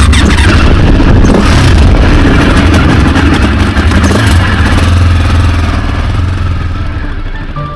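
Motorcycle engine running loud and steady, fading out over the last couple of seconds.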